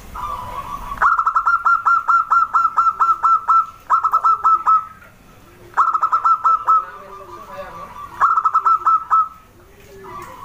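Zebra dove (perkutut) calling: four bouts of quick staccato notes, about five a second, with softer low curved notes in the pauses between bouts.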